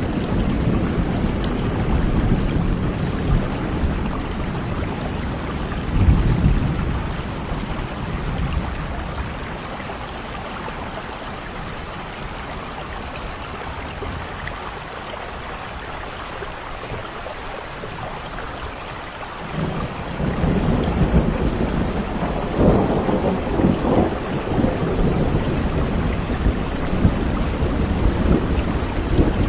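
Steady heavy rain with rolling thunder. The thunder swells about six seconds in, eases off through the middle, then builds again suddenly about two-thirds of the way through and keeps rumbling to the end.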